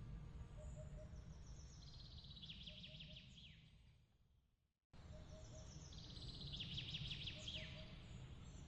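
Birds chirping and trilling over a low, steady rumble like a breeze. About four seconds in the sound fades to silence, then cuts back in abruptly and the same chirps repeat: a looped ambience recording.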